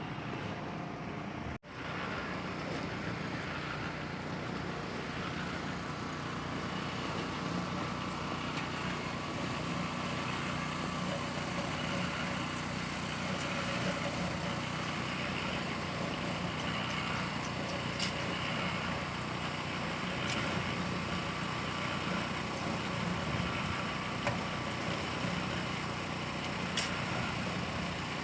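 Generator and cement mixers running steadily, a continuous engine drone, with a couple of faint clicks.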